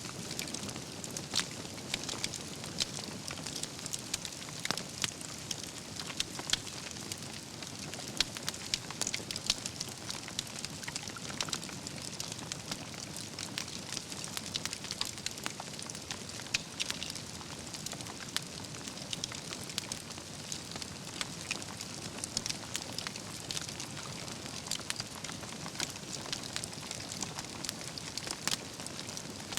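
Wood fire burning, the logs crackling and popping in a continuous stream of sharp little clicks over a steady soft hiss.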